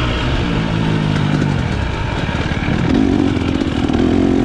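Dirt bike engine running under riding load, its pitch holding steady, wavering, then settling higher about three seconds in as the revs rise.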